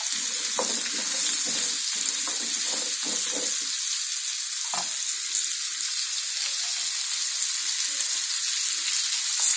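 Pumpkin and potato pieces sizzling in hot oil in a non-stick frying pan, with a steady hiss. A wooden spatula stirs them, scraping and knocking against the pan several times in the first few seconds and once more about five seconds in.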